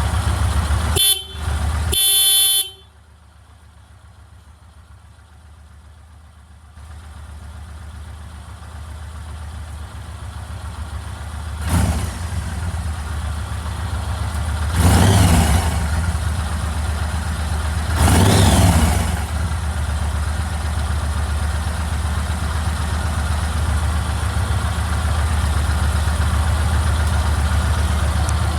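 Yamaha MT-01's big air-cooled V-twin idling with a low, steady beat, and the motorcycle horn sounding two short toots about a second in. The engine sound then falls away sharply for a few seconds and builds back. Two short throttle blips rise and fall further on, before it settles back to idle.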